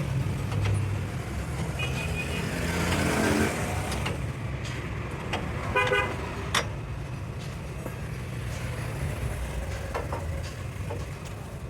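Steady low rumble of a running vehicle engine, with a short horn toot about six seconds in and a few sharp clicks.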